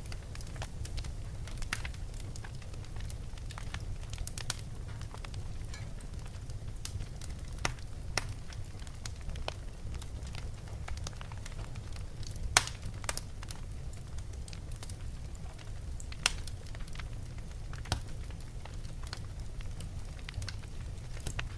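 Wood fire burning in a fireplace: a steady low rumble of flame with irregular sharp crackles and pops, a couple of them louder than the rest.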